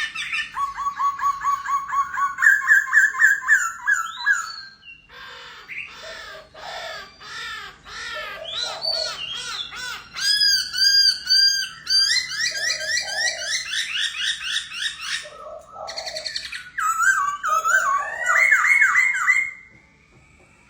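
Songbird singing a loud, varied song of rapidly repeated whistled and trilled phrases, switching to a new phrase type every second or two and falling silent shortly before the end.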